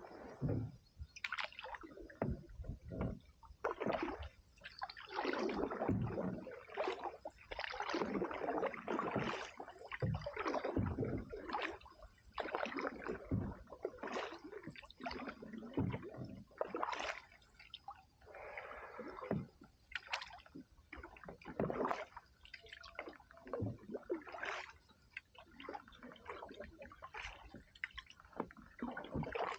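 Canoe paddle strokes in river water: repeated splashing and gurgling as the blade dips and pulls, roughly one stroke every one to two seconds.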